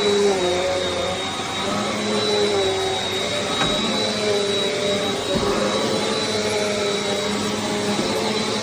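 Bissell CleanView Compact upright vacuum cleaner running steadily, its motor giving a constant high whine over a rushing airflow noise, with lower tones that waver slightly in pitch.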